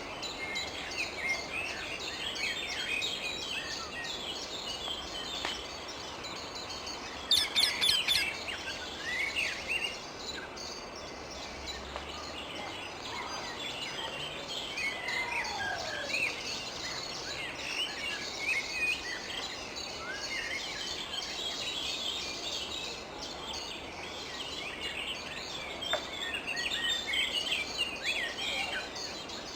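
Wild rose-ringed (Indian ringneck) parakeets calling: many overlapping short, shrill calls throughout, with a loud burst of harsh screeches about a quarter of the way in.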